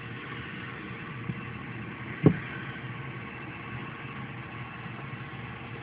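Steady mechanical hum with a few fixed tones running through it, and one sharp knock a little over two seconds in.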